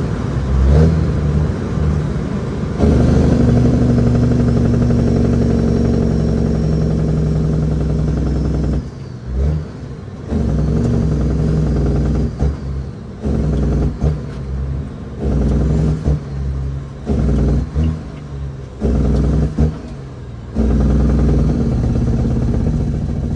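The 6NZ Cat diesel engine of a loaded Kenworth W900L running with a steady hum. From about nine seconds in, the engine sound drops away and comes back repeatedly, roughly every second, before settling steady again near the end.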